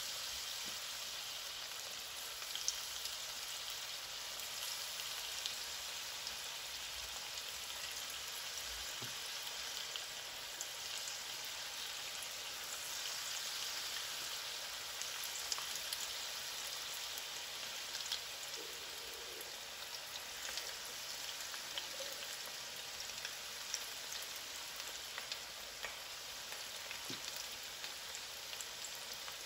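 Batter-coated cauliflower pieces shallow-frying in hot vegetable oil: a steady sizzle with scattered small crackles.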